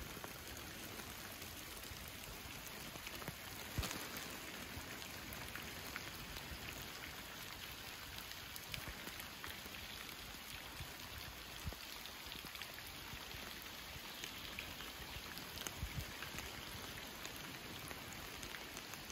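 Steady rain falling on a lake and the wet grass beside it: an even hiss made of many small drop ticks, with one louder tap about four seconds in.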